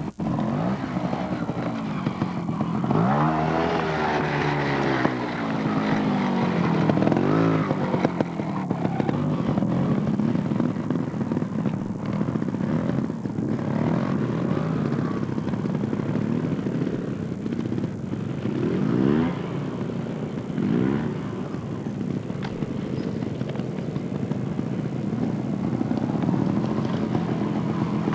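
Vehicle engine revving: its pitch rises and falls several times over a steady running noise.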